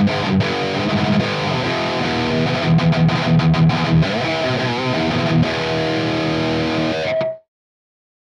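Distorted electric guitar riff through a high-gain EVH 5150 amp boosted by a standard Tube Screamer overdrive, played through a miked speaker. It ends on a held note that cuts off sharply about seven seconds in, leaving silence.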